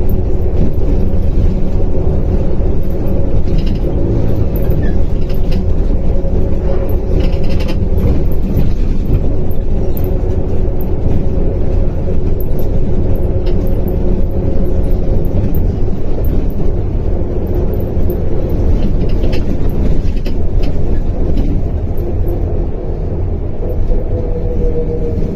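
Simulated MAZ 105 articulated city bus driving: a steady low engine and road rumble with a steady whine over it, and occasional clicks and rattles. Near the end the whine falls in pitch.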